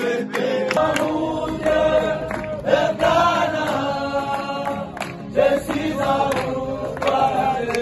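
A group of voices singing a hymn together in chorus, with sharp percussive beats throughout.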